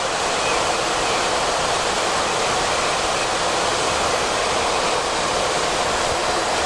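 Steady rushing flight-deck noise of a Boeing 737-400 in flight: airflow and engine noise, even and unbroken.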